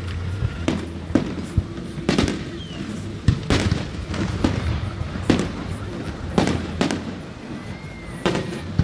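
Fireworks display: aerial shells bursting in quick succession, about a dozen sharp bangs, roughly one a second.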